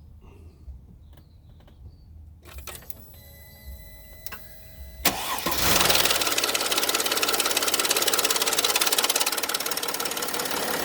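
Cold start of a 2013 Mercedes GL350 BlueTEC's OM642 3.0-litre V6 diesel: after a few quiet seconds with faint clicks and a steady tone, the starter engages about halfway through and the engine catches, then runs loudly with a rapid rattle. The owner puts the rattle down to a stretched timing chain or a worn timing chain tensioner.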